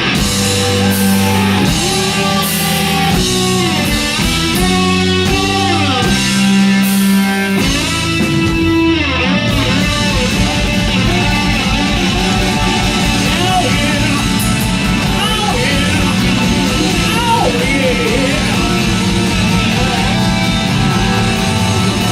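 Hard rock band playing live, led by electric guitar: stop-start riffing with bent notes, then about nine seconds in the drums settle into a fast, steady beat under the band.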